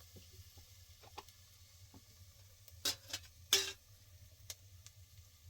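A few sharp clicks and knocks, the loudest about three and a half seconds in, with lighter ticks between, over a faint low hum.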